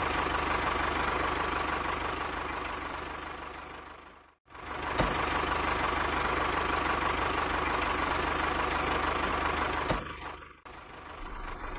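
A small motor running steadily. It is switched off and straight back on about four and a half seconds in, then stops near the end, with a click at each switch.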